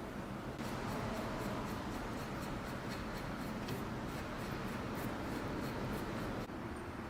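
Quick, regular abrasive strokes by hand on metal, about four a second, as rusty metal is scrubbed clean; the strokes stop suddenly near the end.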